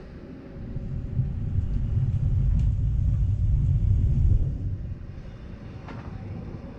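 Low rumble of a moving Rhaetian Railway train, swelling for about three seconds and then easing back.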